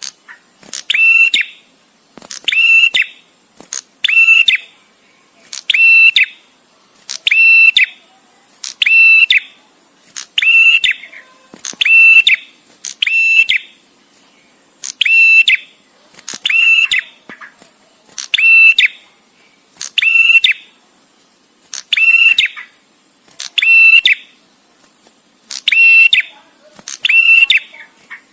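Male prenjak tamu (a prinia) calling: short, high-pitched chirping bursts, each about half a second long, repeated roughly every one and a half seconds with brief pauses between.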